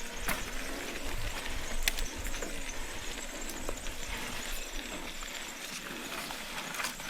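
Mountain bike moving over wet, rocky ground: scattered clicks and knocks from tyres, chain and frame over a steady hiss.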